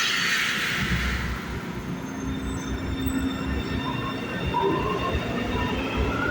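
São Paulo Metro train running on the track: a loud hiss of air fades over the first second or so, then high whining and squealing tones come in over the rumble, some creeping up in pitch near the end.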